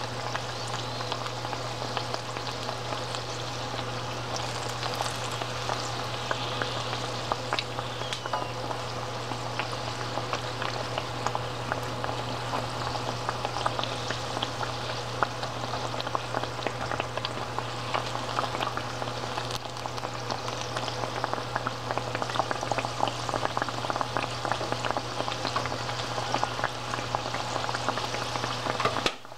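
Cireng, tapioca dough patties, frying in hot oil in a wok: a steady sizzle with many small crackling pops, over a low steady hum. The sound breaks off briefly just before the end.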